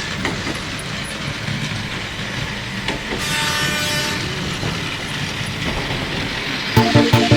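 Battery-powered Plarail toy trains running together on plastic track, with a steady motor whir and wheels clattering over the rail joints. Background music with a beat comes in near the end.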